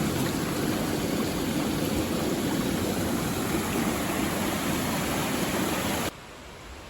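Mountain stream water rushing steadily. It cuts off suddenly about six seconds in, leaving a much fainter hiss.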